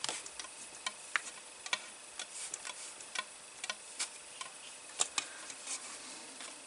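Scattered faint clicks and light crackles at an irregular pace, about one or two a second, over a faint steady hiss: small items or packaging being handled.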